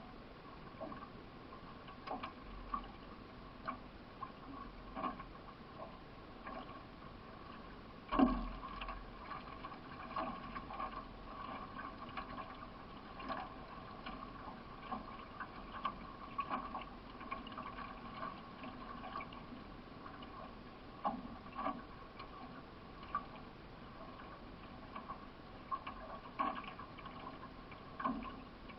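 Racing canoe being paddled: repeated paddle strokes splashing and dripping in the water at an irregular pace, with one sharp knock about eight seconds in against the canoe.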